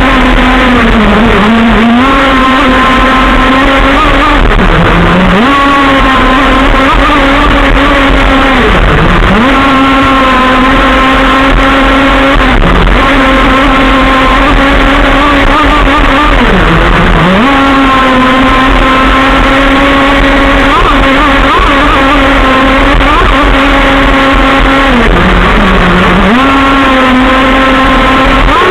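Modified Zenoah two-stroke petrol engine of a large-scale RC car running loud at high revs. Its pitch holds steady and drops briefly about six times as the throttle is eased, then climbs back.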